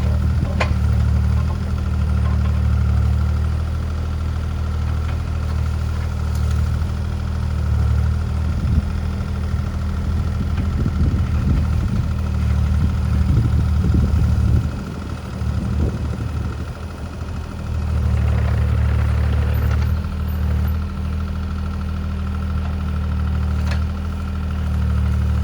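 Diesel engine of a compact earthmoving machine running steadily. About a third of the way in it turns rougher, with clattering as the machine works, then drops off briefly before settling back to a steady run.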